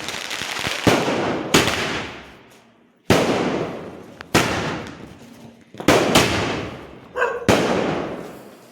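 Firecrackers going off: about eight sharp bangs at uneven intervals, some in quick pairs, each one trailing away over about a second.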